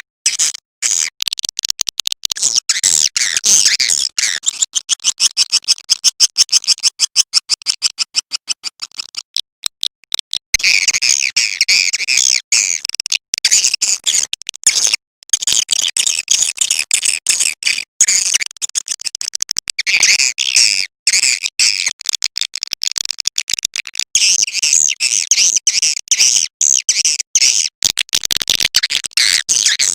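Swiftlet call lure recording: rapid, high-pitched chirping and twittering of swiftlets in fast trains of clicks. About ten seconds in, an evenly pulsed stretch gives way to a denser, continuous twitter.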